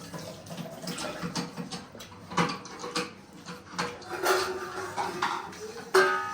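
Close-up eating sounds: irregular clicks and knocks of dishes and chewing at a meal. A brief pitched sound comes about six seconds in.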